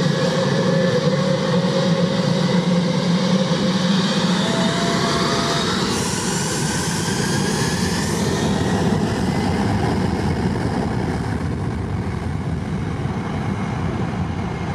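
Airplane engines during landing: a steady rushing noise with a whine that rises in pitch, a sudden louder hiss about six seconds in that lasts a couple of seconds, and the noise then slowly dying down.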